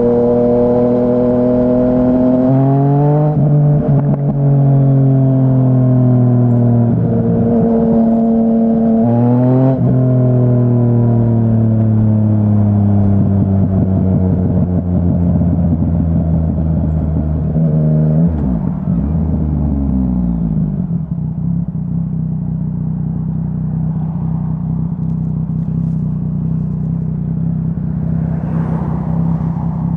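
2017 Yamaha Tracer 900's three-cylinder engine through a Dominator HP3 full exhaust system, pulling hard and changing up a gear about 3 and 10 seconds in, with the pitch dropping sharply at each shift. Around 18 seconds the revs fall away as the bike slows, and the engine then holds a steady lower note.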